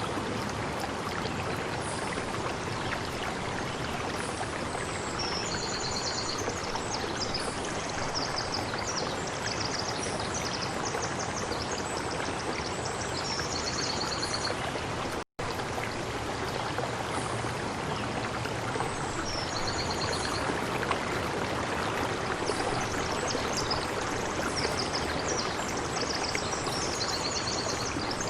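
Steady rushing of a stream with a small bird singing short, high, repeated chirping phrases over it. The whole sound cuts out for an instant about halfway through.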